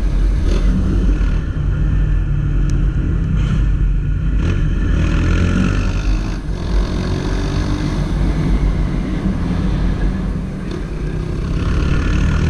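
Honda CG 160 Titan motorcycle's single-cylinder engine running under way, over a heavy low rumble of wind on the microphone.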